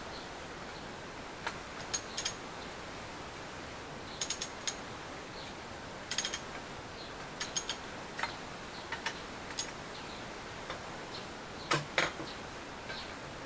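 Scattered, irregular metallic clicks and clinks of hand tools working on a car's strut assembly, over a steady hiss; the two loudest clicks come near the end.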